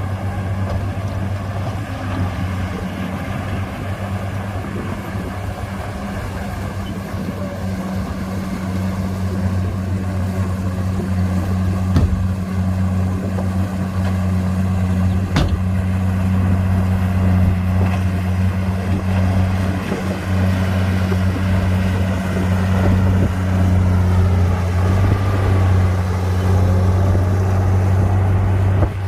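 Heavy diesel earthmoving machinery running steadily under load, a deep, even engine hum that grows somewhat louder about a third of the way in. Two sharp knocks stand out near the middle.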